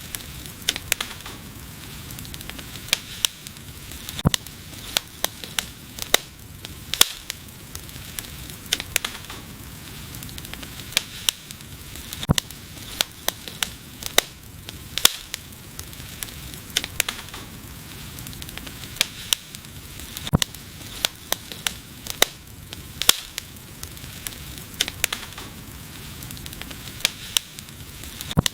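Wood fire burning, with frequent sharp pops and crackles at irregular intervals over a steady low hiss of the flames.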